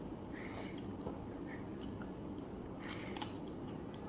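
A person biting and chewing a breaded fried piece of food, with a few quiet crisp crunches of the coating; the strongest come about three seconds in.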